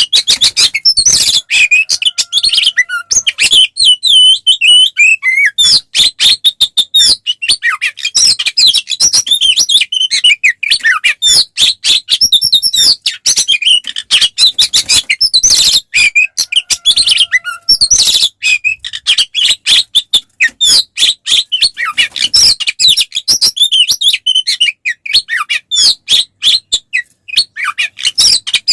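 Oriental magpie-robin singing a fast, unbroken stream of varied chirps, trills and short whistles. This is the aggressive nonstop 'fighting' song that keepers play to rile up other magpie-robins.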